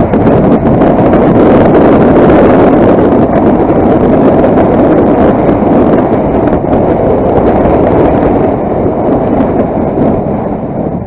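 Wind rush and running noise of a moving motorcycle, a loud steady roar that eases off a little near the end.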